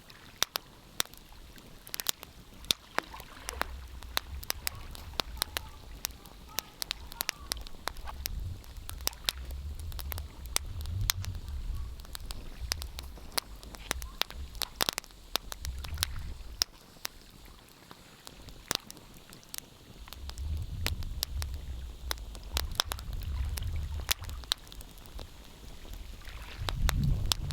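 Wood fire crackling, with frequent sharp pops and snaps scattered irregularly. A low rumble comes and goes in several stretches underneath.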